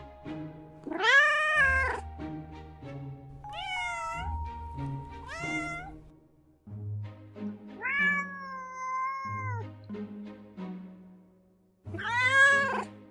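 Domestic cat meowing about five times, with one long drawn-out meow in the middle, over background music.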